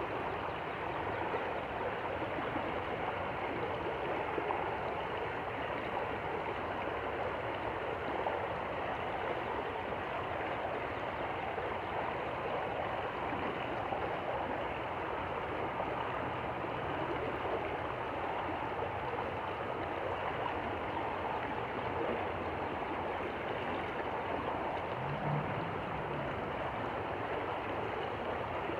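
Stream water flowing: a steady, even rush of water that does not change.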